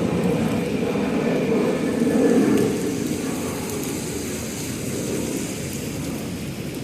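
A large vehicle passing, loudest about two and a half seconds in, then fading away as it recedes, over the hiss of rain.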